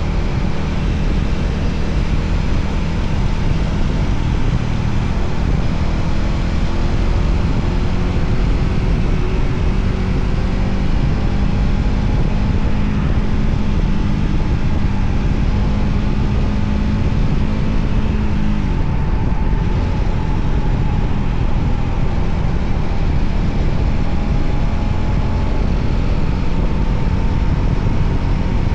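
Voge 300ACX motorcycle's single-cylinder engine running under way, its pitch drifting slowly up and down with a steady rushing noise of riding beneath it. About 19 seconds in, the pitch shifts.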